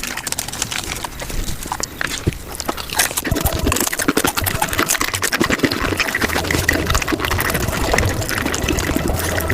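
Close-miked eating sounds, wet chewing and mouth clicks, played back at five times normal speed as a dense, rapid run of smacks and clicks that grows louder about three seconds in.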